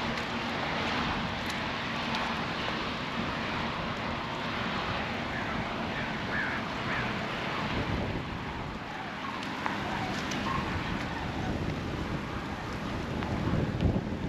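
Wind blowing across the microphone with rain falling: a steady rushing noise, with heavier gusts buffeting the microphone near the end.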